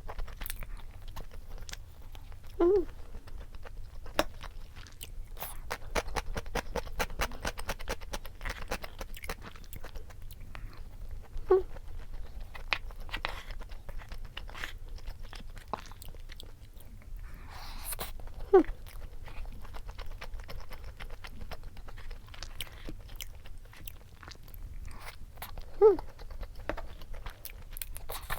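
Close-miked mukbang eating of a chicken-mayo rice bowl: steady wet chewing with many small mouth clicks and some crunching. About five short, louder gulps come several seconds apart.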